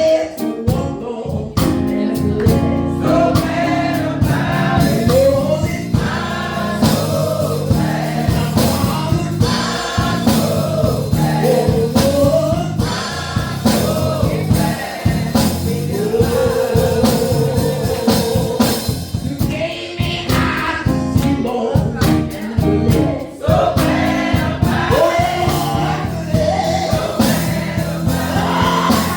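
Gospel choir singing with a driving instrumental accompaniment.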